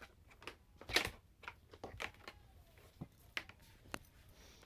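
Quiet room with a few scattered soft clicks and knocks, as of something being handled.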